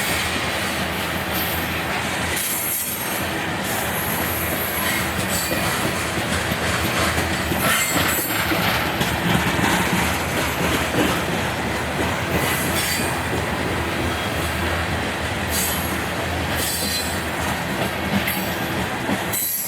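Loaded coal train cars rolling past, steel wheels running on the rails with a steady rumble and a high-pitched wheel squeal that comes and goes.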